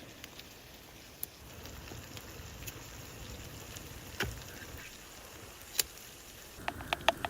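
Scattered sharp clicks and crackles over a steady low hiss, with a quick run of four clicks near the end.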